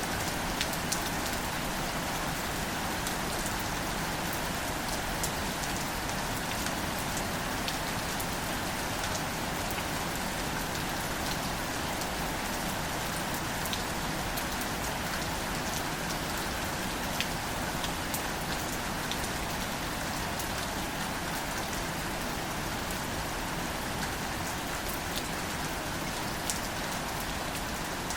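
Steady, gentle rain falling on wildflowers and their leaves, a continuous hiss with many small drop ticks close by.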